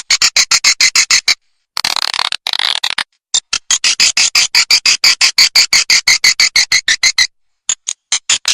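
Swiftlet lure-call recording: fast trains of sharp high chirps, about nine a second, broken by short pauses, with a brief stretch of continuous twittering a little under two seconds in. It is the calling sound played in swiftlet houses to draw swiftlets in to roost and nest.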